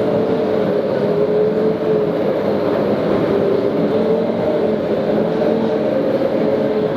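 Rimac Nevera all-electric hypercar giving off a steady electric hum: a few held tones that waver slightly, over a haze of noise.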